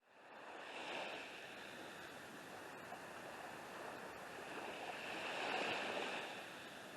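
Gentle surf washing onto a beach, a steady hiss of water that swells about a second in and again around five to six seconds.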